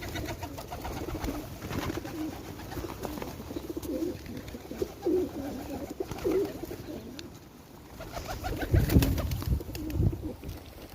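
Pigeons cooing repeatedly while they feed, with a louder burst of noise about nine seconds in.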